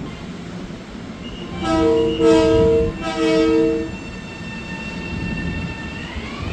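Long Island Rail Road train sounding its horn in three blasts, the last two longer, over the steady rumble of the passing train. Near the end a high whine starts rising in pitch.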